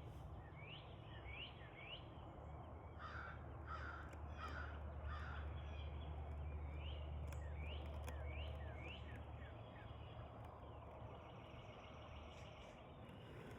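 Crows cawing, four caws in a row a few seconds in. Under them a small bird repeats short rising chirps, over a low steady hum.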